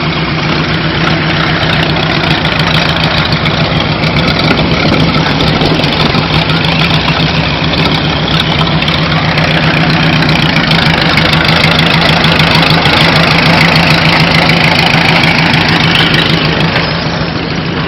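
Engine of a vintage Happy Farmer tractor running with a steady rhythmic beat. It grows a little louder through the middle and drops back near the end.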